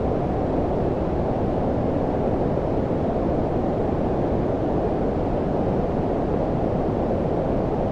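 Steady low-frequency filtered noise, a deep even rumbling hiss like brown noise, with nothing above about 1 kHz to speak of and no changes.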